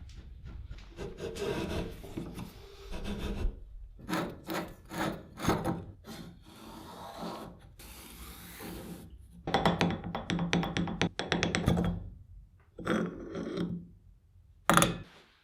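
Hand scraping and rubbing strokes on the old air pump's parts, coming in bursts of rapid strokes with short pauses between them and one sharp stroke near the end.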